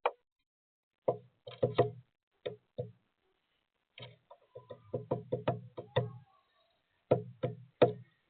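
Woodpecker pecking at a feeder, hammering at sunflower seeds: a string of sharp knocks in an uneven rhythm, with a quicker run of blows in the middle and a few harder strikes near the end.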